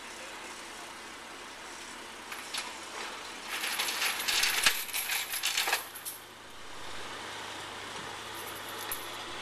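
A burst of rapid metallic clinking and rattling, lasting about two and a half seconds from about three and a half seconds in, over a steady vehicle rumble.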